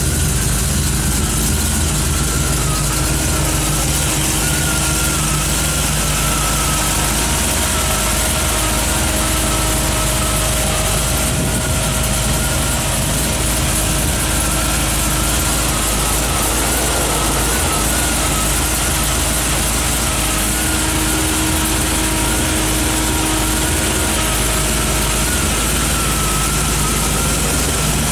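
A rebuilt Dodge 5.9 Magnum V8, converted to a carburetor, idling steadily.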